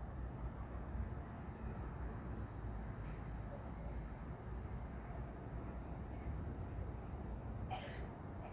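Crickets chirping in a steady, unbroken high trill, over a low steady rumble.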